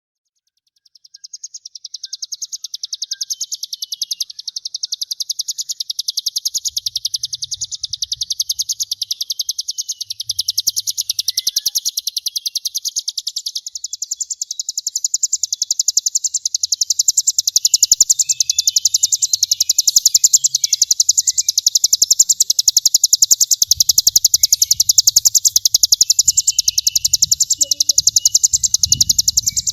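A continuous, rapidly pulsing high buzzing trill of the 'brem' kind used in Indonesian songbird-training (masteran) recordings. It starts about a second in and grows louder about halfway through.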